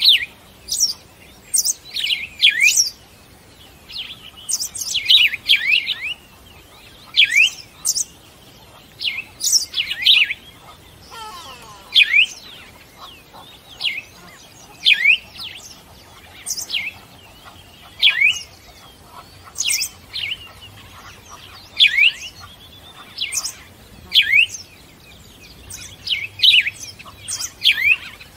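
Birds chirping: short, sharp chirps, often two to four in quick succession, repeating every second or two.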